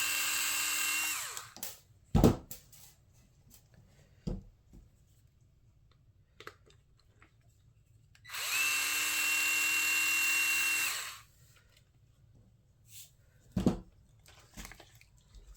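Small cordless power driver spinning out the motor mount screws of an RC truck, two steady runs at a constant pitch: one ending about a second in, another of about two and a half seconds in the middle. Light clicks and knocks of small parts being handled in between.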